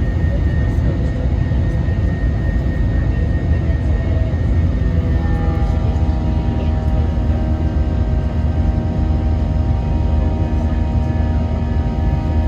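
Cabin noise inside an Airbus A321-200 airliner: the steady, loud roar of its jet engines and the airflow, with whining engine tones on top that shift to a new pitch about five seconds in.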